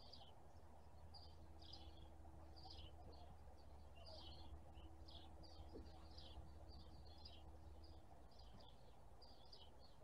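Small birds chirping faintly, a busy run of short high chirps several times a second, over a faint steady low hum.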